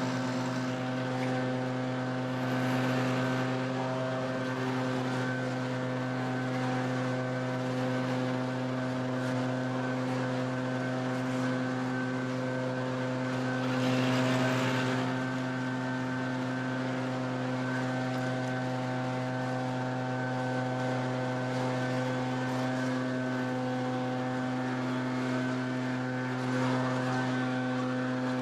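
An engine running at a steady speed, its pitch even throughout, with slight swells of added noise a few times.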